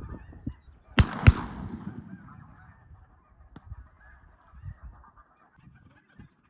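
Two shotgun blasts about a third of a second apart, about a second in, with a fading tail, over a steady chorus of snow goose honking that carries on, fainter, afterwards.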